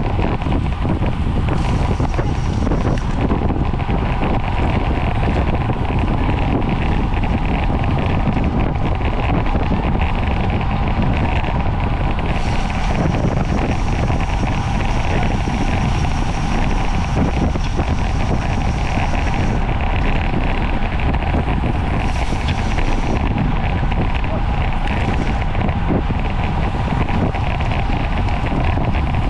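Steady wind buffeting the microphone of a camera on a bicycle riding at racing speed. A faint high whine comes and goes.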